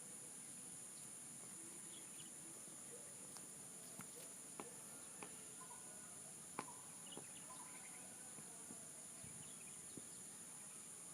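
Faint, steady high-pitched insect chorus of crickets or cicadas, with a few scattered soft clicks and faint distant bird chirps.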